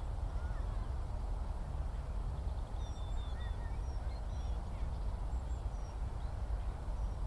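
Faint, scattered high chirps of distant skylark song over a steady low rumble.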